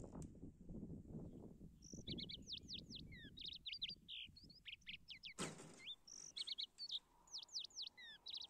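A small songbird sings runs of quick high chirps and down-slurred notes in repeated phrases, starting about two seconds in. Before that there is low rustling of radish leaves being handled, and a short burst of noise comes about halfway through the song.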